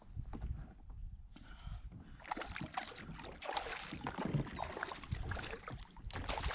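Water splashing and sloshing against a kayak, in irregular bursts from about two seconds in, over a steady low rumble.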